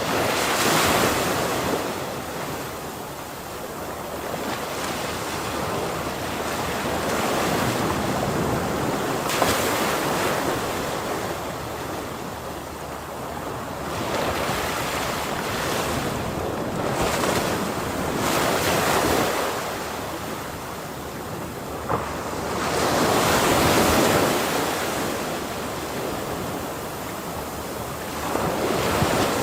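Ocean waves breaking and washing up, the surf swelling and easing every few seconds, the biggest wave breaking about three-quarters of the way in. Wind noise rushes under the surf.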